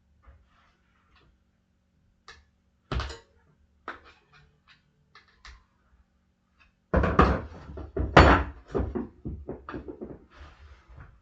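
Metal tire irons knocking and clanking against a dirt bike wheel rim while the tire bead is pried off. A single heavy thunk about three seconds in, then a quick run of knocks and clatter from about seven seconds on.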